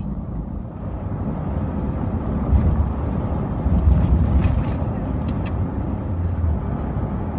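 Steady low rumble of road and engine noise from a car driving on a highway among big trucks, swelling louder about two and a half and four seconds in as traffic goes by.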